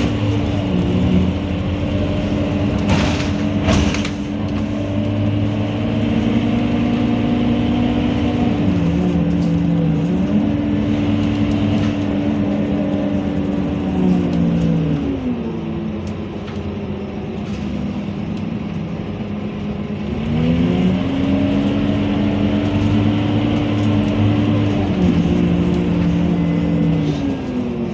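Scania K230UB bus's five-cylinder diesel engine and drivetrain working under way. It runs steadily, eases off and goes quieter about halfway through, then picks up again with a rising pitch and holds before easing off once more near the end.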